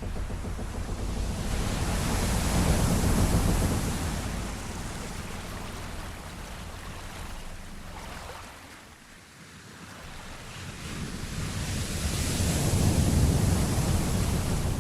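Sea waves rolling in slow swells, rising to a peak about three seconds in, easing to a lull around nine seconds, then building again near the end.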